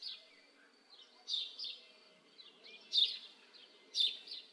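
Small birds chirping outdoors: short high calls repeating every second or so over faint background noise.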